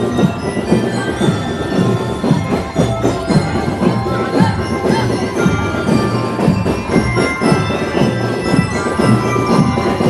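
Marching band music: a ringing bell melody over a steady drum beat.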